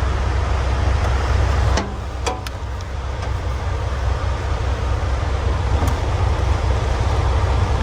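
Diesel truck engine idling steadily with a low rumble, with a few light clicks about two seconds in and one near six seconds.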